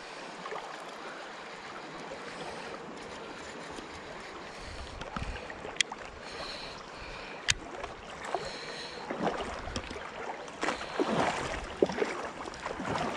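Wading through a shallow river: water swishing and splashing around the legs over the steady rush of the current, with a few sharp clicks, the splashing growing louder near the end.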